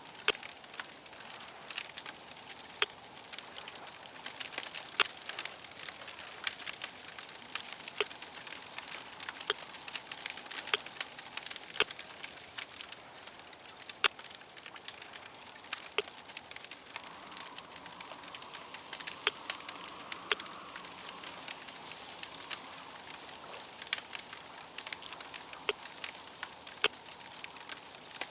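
Crackling fire: a steady hiss dotted with frequent sharp pops and snaps. A faint hum swells briefly past the middle.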